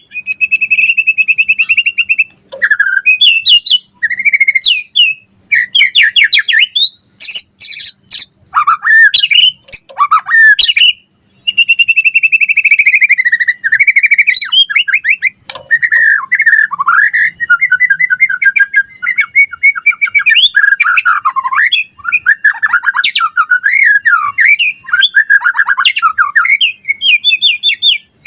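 White-rumped shama (murai batu) singing loudly and continuously, a varied run of whistles, rapid trills, buzzy held notes and sweeping up-and-down phrases with brief gaps between them.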